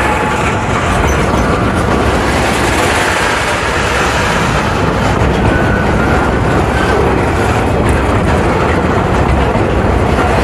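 Freight train of enclosed double-deck car-carrier wagons rolling past close by: the steady noise of its wheels running on the rails.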